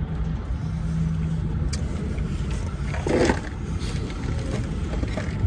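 Steady low rumble of a car idling, heard inside the cabin, with a low hum in the first second or so. A brief muffled sound about three seconds in.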